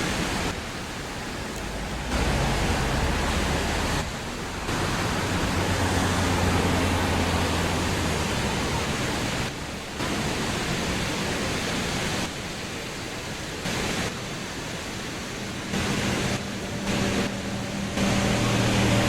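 Steady rushing noise of falling water from a waterfall, changing abruptly in level and tone every few seconds as one clip cuts to the next. A low steady hum joins near the end.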